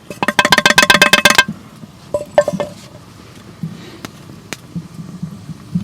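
A rapid run of metallic clinks with a ringing tone, about a dozen in just over a second, then two or three single clinks: a spoon against a metal pot as the roasted dandelion-root coffee powder goes into the boiling water.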